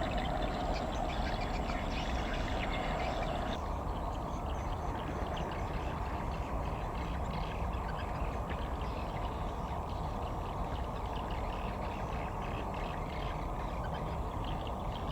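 Steady low rumble of a passing container ship, with a faint crackling hiss above it.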